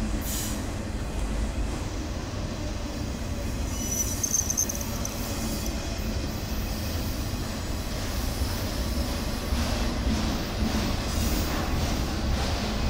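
Freight train of autorack cars rolling past, a steady rumble of steel wheels on rail, with a brief high squeal about four seconds in.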